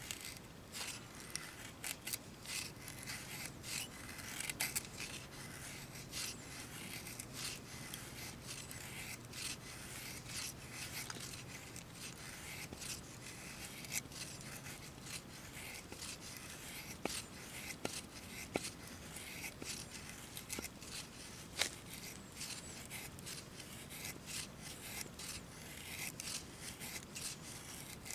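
A knife blade shaving thin curls off a wooden stick in short, quick strokes, a few a second, carving a feather stick for lighting a fire.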